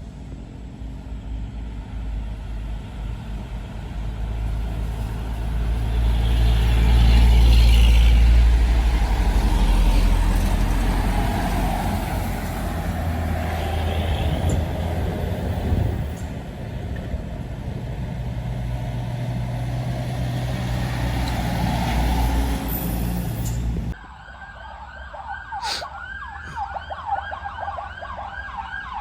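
Large diesel vehicles, buses among them, driving past on a rain-wet road, with a low engine rumble that swells loudest about a quarter of the way in. After a sudden drop near the end, a fast warbling siren-like horn sounds over and over.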